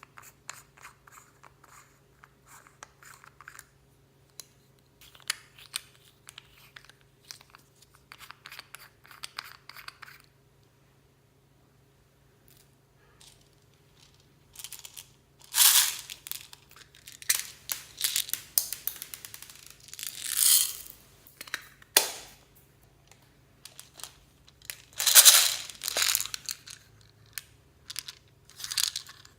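Clear slime mixed with beads and floam being squished and stretched, giving crackling clicks and pops. Faint and sparse at first, then after a short pause louder, crunchier squelches in the second half.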